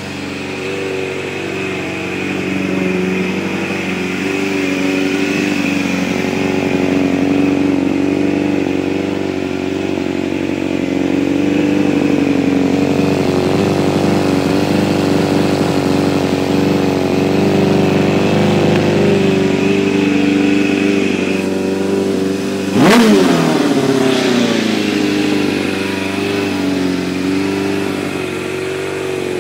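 Kawasaki Ninja 750 (ZX-7R) inline-four motorcycle engine running steadily just after its carburettors were cleaned, with one quick blip of the throttle about three quarters of the way through, the pitch shooting up and dropping back.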